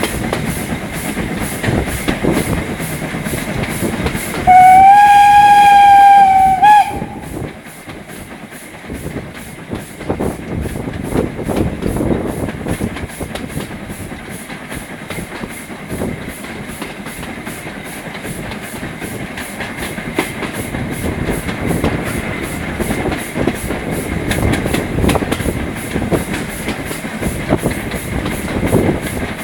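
Heritage train running along the line, its wheels knocking over the rail joints, with one long whistle blast about four seconds in that lasts a little over two seconds and bends slightly at its end.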